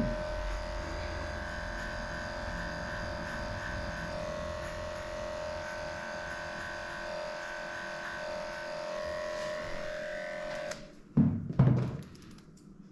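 Electric dog grooming clippers running steadily while shaving matted coat, switched off near the end. Right after, two short, loud low thumps.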